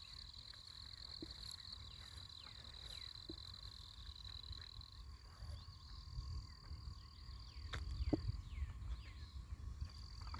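Insects trilling in one steady high unbroken note, with a low rumble of background noise and a few faint falling chirps; the trill drops out for a moment about halfway and again near the end.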